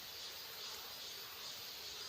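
Faint, steady insect chirring: an even high hiss with no separate calls and no pauses.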